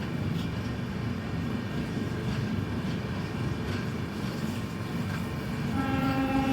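Train running on the track with a steady low rumble and faint occasional clicks, then a train horn sounding steadily near the end.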